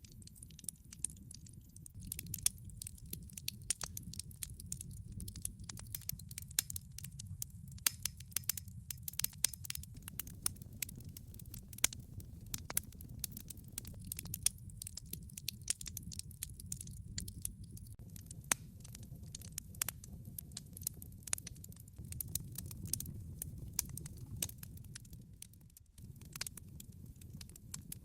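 Wood fire burning in a fireplace: logs crackling with many irregular sharp pops over a steady low rumble of the flames.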